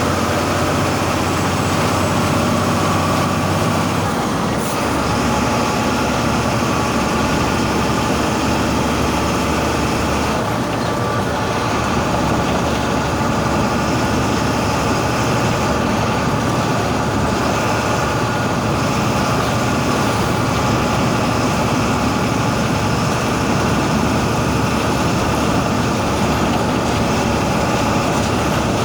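MWM 6.12 TCE 7.2-litre turbo-intercooled six-cylinder diesel of a VW 17-230 EOD bus running at medium to high revs. Its note changes about four seconds in and again about ten seconds in.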